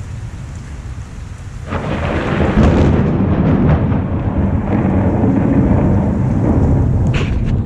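Thunder during a thunderstorm: a loud clap about two seconds in, rolling on as a low rumble for several seconds over steady rain.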